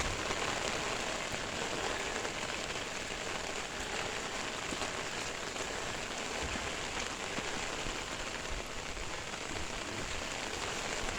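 Steady rain falling and pattering on the car and the ground around it.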